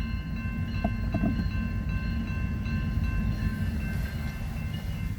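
BNSF freight train passing close by, a steady low rumble with faint steady high tones above it that fade near the end.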